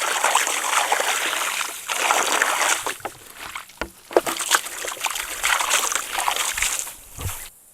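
Water running from a hose and splashing, in several spells with short breaks, stopping near the end.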